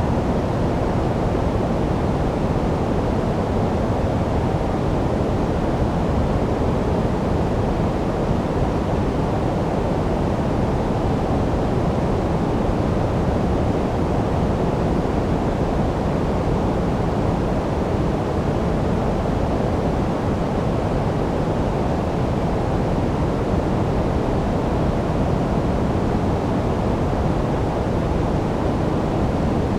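Steady synthetic sleep noise, constant and unchanging, with a deep, muffled tone: its energy sits mostly in the lows, nearer pink or brown noise than bright white hiss.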